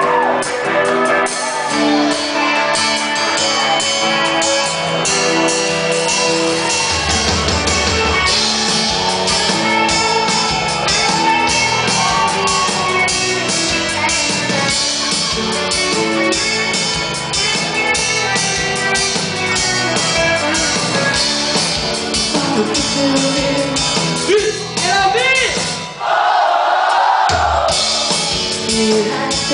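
Live band playing amplified music with a singer over drums and bass. About 26 s in, the bass and drums drop out for a moment under a loud held vocal, then the band comes back in.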